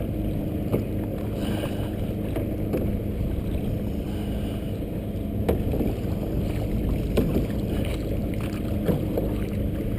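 Canoe being paddled through choppy lake water: a steady low rumble of water and wind, with waves slapping and splashing against the hull and occasional sharp knocks every second or two.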